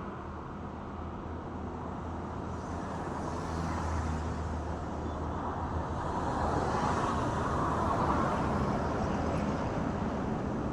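Road traffic: steady engine hum and tyre noise that grows gradually louder, swelling most about two-thirds of the way through as a vehicle comes close.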